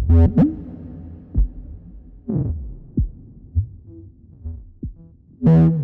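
Plumbutter 2 analog synthesizer, run through Analog Heat 2 distortion and Raum reverb, playing irregular low thumps and short pitched tones that swoop down in pitch. The loudest hits come right at the start and again near the end.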